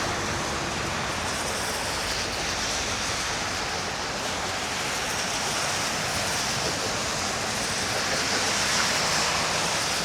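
Steady rush of wind noise on the microphone from riding an electric scooter, an even roar with no distinct events.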